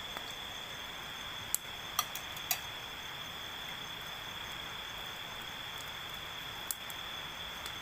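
Insects, crickets or the like, droning steadily in one high unbroken tone. Three sharp clicks fall close together around two seconds in, and another comes near the end.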